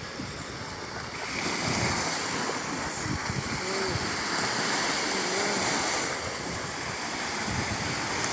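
Caspian Sea waves washing onto the shore: a steady rushing surf that grows louder about a second in.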